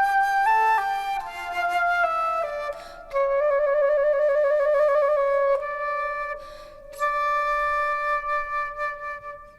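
Solo flute playing a slow melody as background music. The notes step downward; a long held note with vibrato follows, and there are short breaths about three and seven seconds in.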